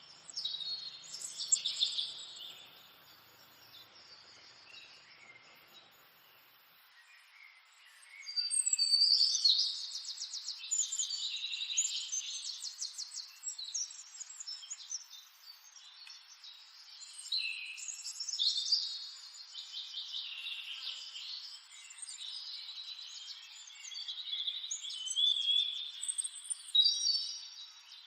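Several birds chirping and trilling in quick, high-pitched notes, in overlapping bouts; a lull of a few seconds near the start, then busier and louder singing.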